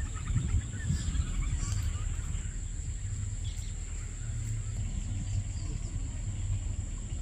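Outdoor lakeside ambience: birds chirping in the first couple of seconds, a steady high-pitched insect drone, and a low rumble underneath.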